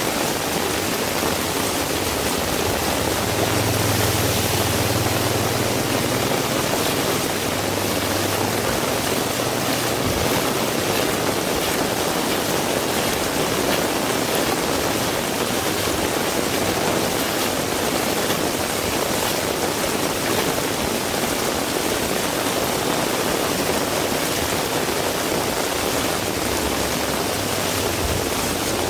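Heavy rain falling steadily, a dense, even hiss. A low hum comes in about three seconds in and fades out around ten seconds.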